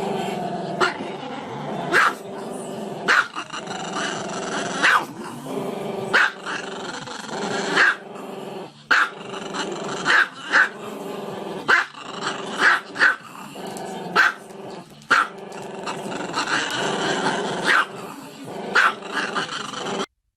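A dog growling continuously, broken by sharp barks about once a second. The sound cuts off suddenly near the end.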